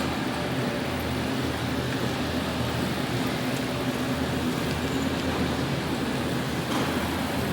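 Electric go-kart running on an indoor track, a steady motor hum with the noise of tyres and the hall.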